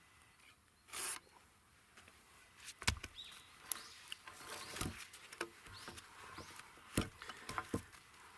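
Pieces of wood being knocked and handled: three sharp knocks about two seconds apart, with small clicks and scrapes between them and a brief rustle about a second in.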